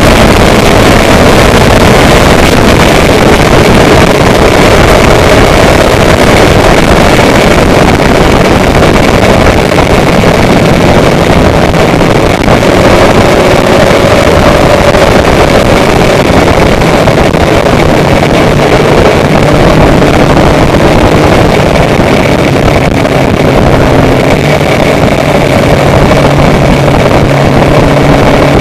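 A vehicle on the move: a steady, loud rush of wind and road noise with an engine's hum underneath that shifts in pitch now and then.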